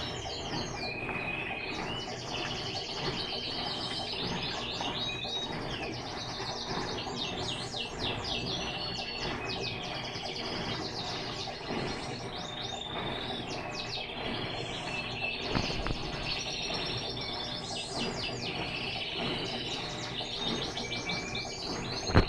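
Small birds chirping and trilling again and again, over a steady background noise.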